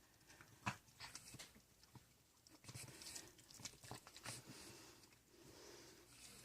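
A dog chewing a hard dental chew treat: faint, irregular crunches and clicks of teeth on the chew, coming in small clusters.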